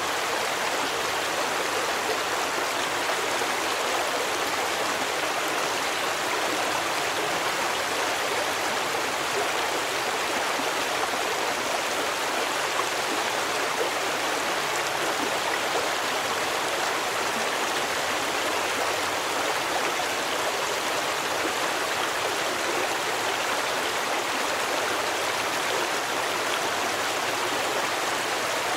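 Stream water running over rocks: a steady, even rush of flowing water.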